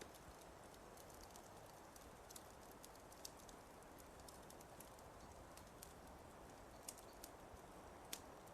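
Wood fire crackling softly: scattered sharp pops and snaps, a few louder than the rest, over a faint steady hiss.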